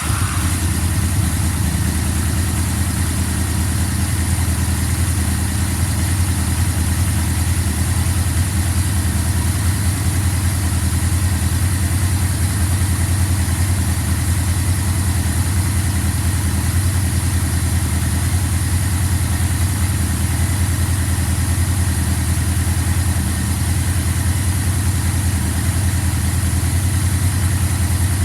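Yamaha V-Max's V4 engine idling steadily, just after starting.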